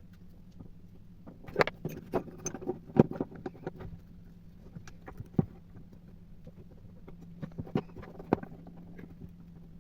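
Small hard parts of a coffee grinder being handled, with irregular clicks and knocks in two clusters, one early and one near the end, over a faint steady hum.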